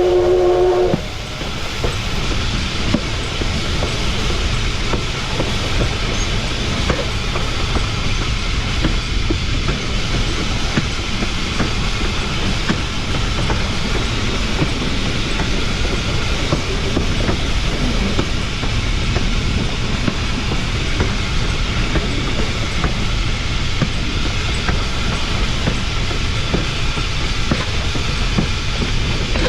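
Narrow-gauge steam locomotive 488's whistle sounding a chord that cuts off about a second in. Then the steady rumble and clatter of its wheels rolling over the rails.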